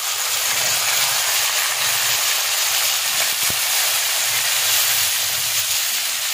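Ground onion paste sizzling steadily and loudly in hot ghee in a kadai as it is stirred with a wooden spatula.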